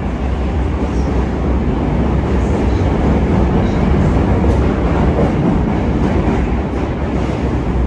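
Hankyu 9000 series electric train heard from inside the passenger car while running underground: a steady, loud rumble of wheels on rail, growing slightly louder over the first few seconds, with a few faint clicks.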